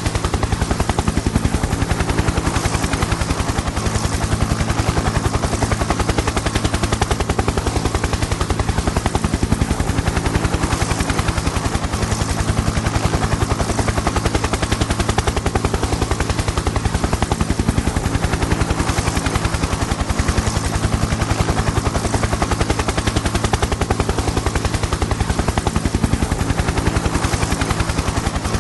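Helicopter in flight: a fast, even chop of the rotor blades over a steady low engine hum, unchanging throughout.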